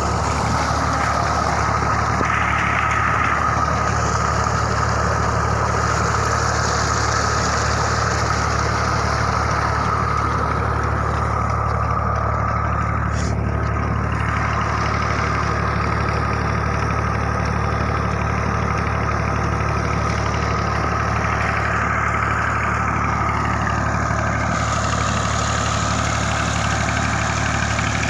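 Tractor engine running steadily at constant speed while it drives a water pump drawing from a deep bore well, with a steady high-pitched whine over the low engine note.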